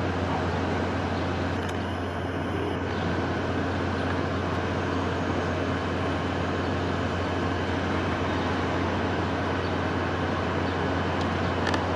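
Steady wind noise: an even, continuous rush with a constant low rumble underneath.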